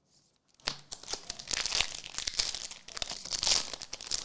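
Crinkling and tearing of a foil trading-card pack wrapper being opened, a dense crackle that starts about half a second in.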